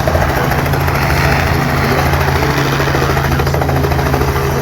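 Helicopter running close by: a fast, steady rotor beat over a low engine hum.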